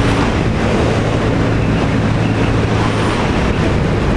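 Honda CBR150R's single-cylinder engine running at a steady cruising speed, under heavy wind rush over the helmet microphone.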